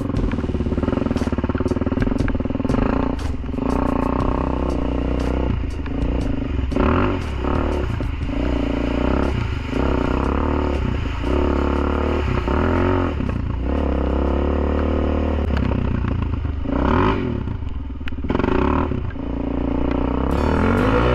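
Suzuki LT-Z400 quad's single-cylinder four-stroke engine breathing through a Dominator MX2 aftermarket exhaust, revving up and down over and over as it is ridden, with frequent short knocks and clatter.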